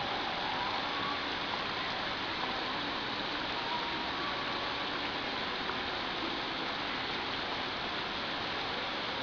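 Steady rain falling on a pond's surface, an even wash of raindrops hitting the water.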